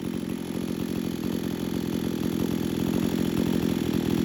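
Two-stroke chainsaw engine running steadily, getting gradually louder, with its high-speed (H) carburettor jet just adjusted slightly rich to keep the engine cool while keeping plenty of power.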